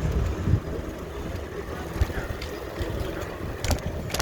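Wind buffeting the microphone of a camera carried on a moving bicycle, a low gusty rumble, with a couple of sharp clicks or rattles near the end.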